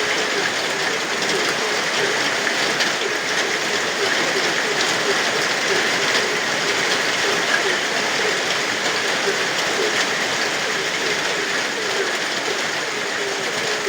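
Steady rain falling, with a chorus of frogs croaking over and over in short, low calls.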